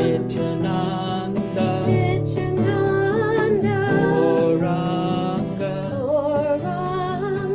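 Kirtan music: voices chanting a devotional mantra in a wavering sung melody over steady sustained instrumental accompaniment.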